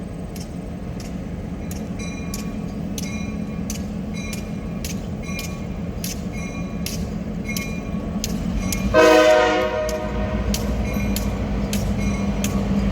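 Diesel freight locomotive running past with a steady engine hum and a run of wheel clicks on the rails, then a loud horn blast about nine seconds in, lasting about a second.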